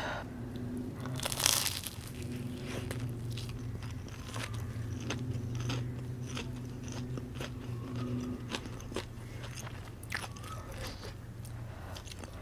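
Close-miked eating: one loud crunchy bite about one and a half seconds in, then chewing with many small wet clicks, over a steady low hum.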